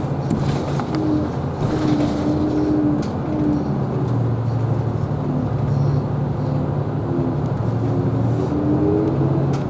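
Isuzu Erga Hybrid city bus driving along, heard from inside the passenger cabin: a steady drivetrain hum with road noise, and a higher tone that comes and goes, rising slightly near the end.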